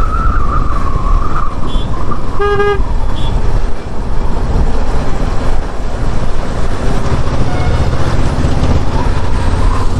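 Road traffic rumbling steadily, with a vehicle horn honking once, briefly, about two and a half seconds in; a wavering held tone sounds for the first second and a half.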